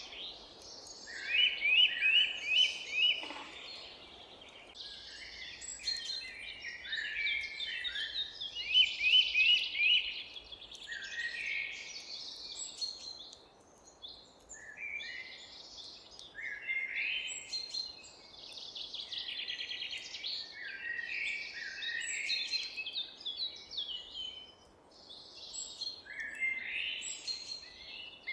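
Several songbirds singing and chirping over one another, with repeated quick trilled phrases and short chirps coming in bouts with brief lulls, over a faint steady background hiss.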